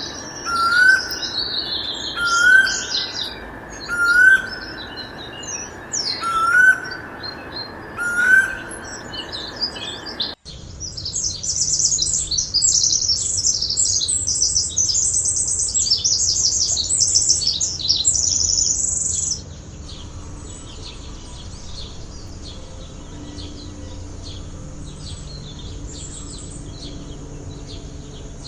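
Birds singing: one bird repeats a short phrase ending in a rising note about every second and a half; then, after an abrupt cut about ten seconds in, a dense, high twittering chorus that drops to fainter scattered chirps a little past the middle.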